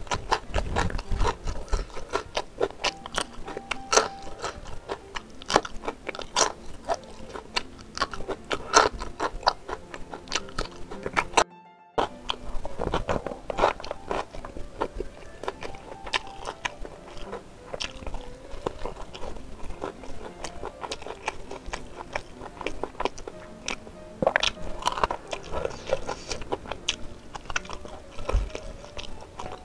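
Close-up chewing and wet mouth clicks of a person eating spicy beef ribs and rice by hand, over background music. The sound cuts out for about half a second near the middle.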